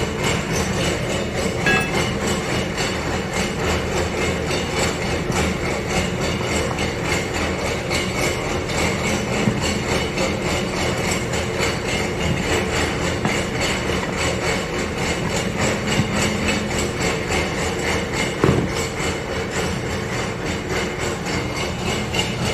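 Machinery running steadily with a fast, even clatter, and a few separate knocks.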